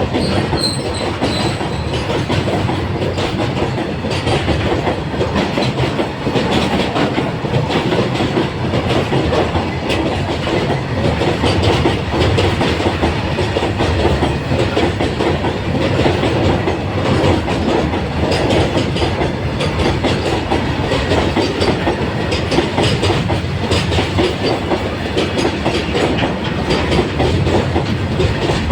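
Long freight train rolling past, its wagons' wheels clacking steadily over the rail joints.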